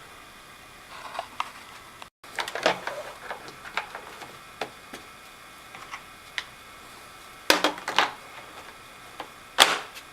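Irregular clicks and knocks of plastic vacuum-cleaner parts being handled and fitted into place, with two louder snaps in the last few seconds.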